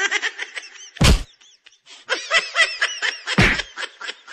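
Young men laughing and shouting while splashing in a small pool, with two loud splashes, one about a second in and one a little past three seconds.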